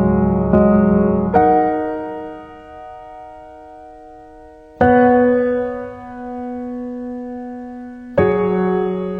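Piano music: a few chords struck twice in quick succession near the start, then two more struck about three and a half seconds apart, each left to ring and fade.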